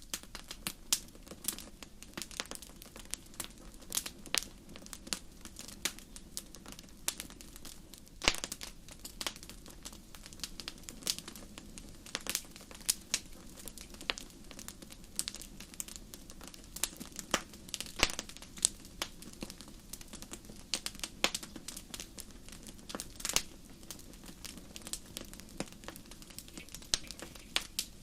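Fire burning in a fireplace, crackling: irregular sharp pops and snaps, several a second, over a low steady rumble.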